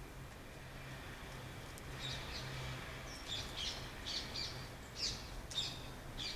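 Small birds chirping: a quick series of short, high chirps that starts about two seconds in, over faint background noise.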